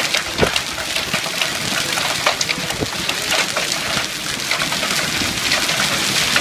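Hail and heavy rain pelting down: a steady, dense hiss broken by many sharp clicks of hailstones striking hard surfaces.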